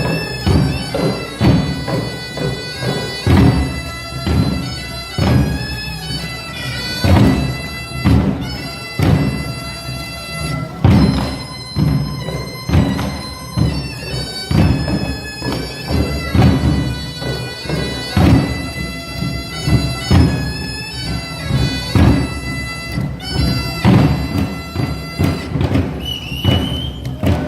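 Nanta drum ensemble striking drums in a steady beat, heavy strokes about once a second, over loud backing music with a held, sustained melody.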